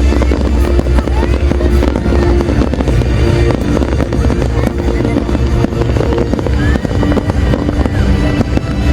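A fireworks display going off continuously, with dense crackling and popping, over loud music with a heavy bass. A few short whistles from shells rise through it.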